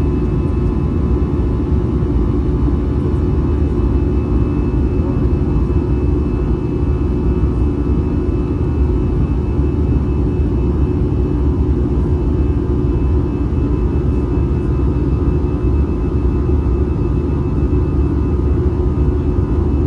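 Airbus A320 cabin noise during the climb after takeoff: its CFM56-5B engines and airflow make a loud, unchanging low roar with a steady hum and a faint high whine over it.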